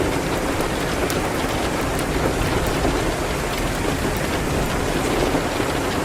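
Steady rain beating on a window, an even, unbroken wash of noise with a few faint sharp clicks scattered through it.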